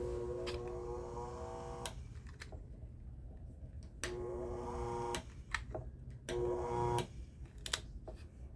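Tempware 20-inch high-velocity fan motor running on a speed controller, with a steady low hum that the controller adds. Three times a whine sets in, with tones rising in pitch, and cuts off suddenly, among a few sharp clicks.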